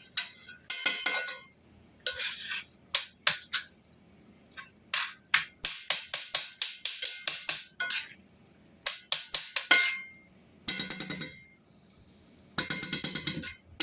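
A metal utensil scraping and clinking in a bowl in quick runs of strokes with short pauses, as meat is mixed with seasonings and gochujang.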